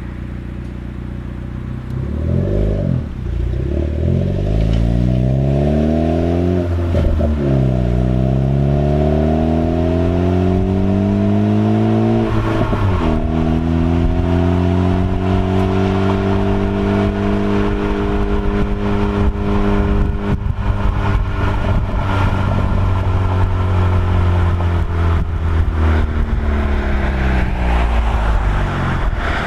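Ford Focus ST with an MBRP aftermarket exhaust accelerating hard. The engine note climbs, drops suddenly twice as it shifts up, then holds a steady pitch and eases off near the end.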